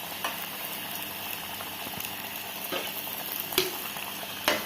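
Breaded chicken momos deep-frying in hot oil, a steady sizzle, with a few sharp clicks, the loudest near the end.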